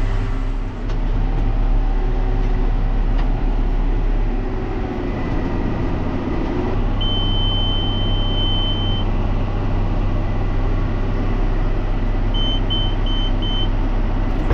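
John Deere 7510 tractor's six-cylinder diesel running steadily under the load of a 450M round baler wrapping a bale. An electronic monitor gives one long beep about halfway through and four short beeps near the end.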